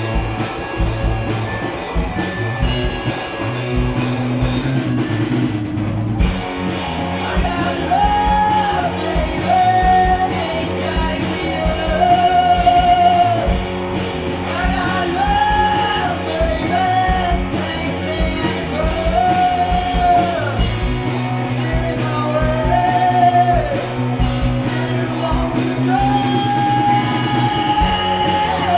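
Live gypsy rock band playing, with drums, bass, guitar and accordion. A singer comes in about seven seconds in with long held notes that bend at their ends.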